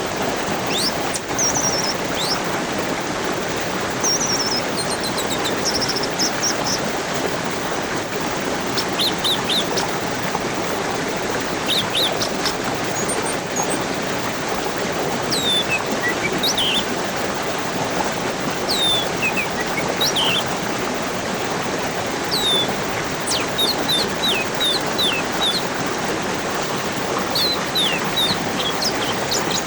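Steadily rushing stream water with small birds chirping over it: many short, high, quick falling chirps, in loose clusters all through.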